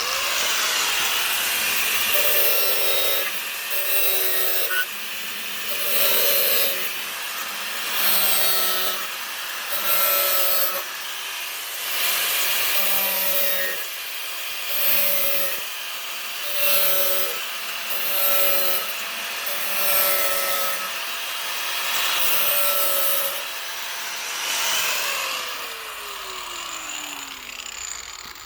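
Electric handheld power tool running under load, cutting or grinding in repeated passes about once a second, with a steady motor whine underneath. It starts abruptly, and near the end the motor is let off and spins down with a falling whine.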